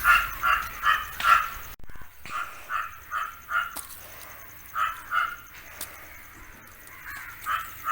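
An animal calling in runs of short, evenly spaced calls, about three a second, coming in several bursts with pauses between.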